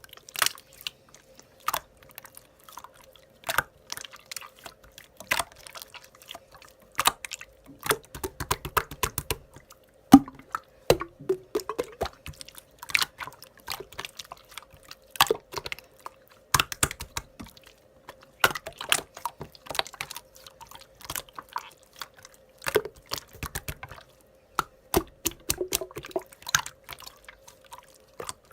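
Slime being squished and poked by hand, a steady run of irregular wet clicks and pops, with a faint steady hum underneath.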